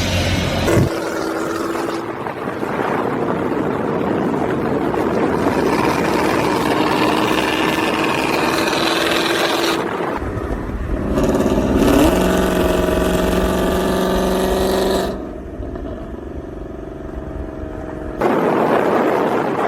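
Muffler-deleted 5.0 V8 exhaust running and revving, heard in several abruptly cut segments, with a rising rev about halfway through.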